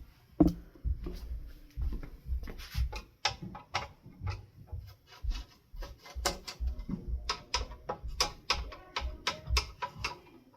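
Irregular clicks, clinks and dull bumps of hand work with a screwdriver on a ceiling fan, unscrewing and handling the blade screws and blade irons as the blades come off.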